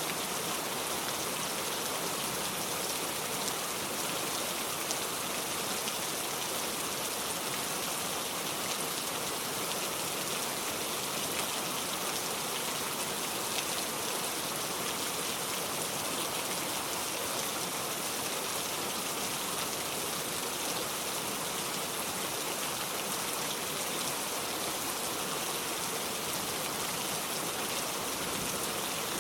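Steady rainfall: an even hiss of rain pattering on a surface, with faint scattered drop ticks.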